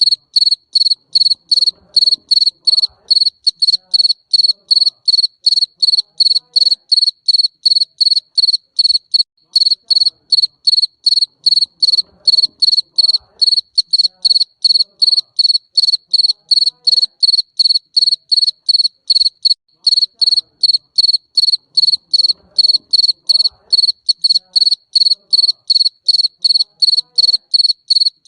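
Garden cricket chirping steadily: a loud, high-pitched chirp repeated evenly at about three a second.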